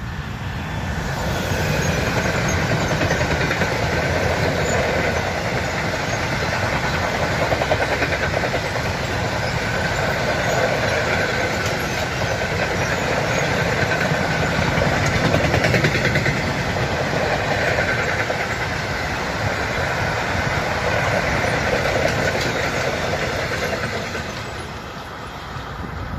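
Freight train hauled by a DB electric locomotive passing close by: the sound swells as the locomotive arrives about a second in. Then comes a long, steady noise of the covered wagons' wheels running on the rails, which fades as the last wagon goes by near the end.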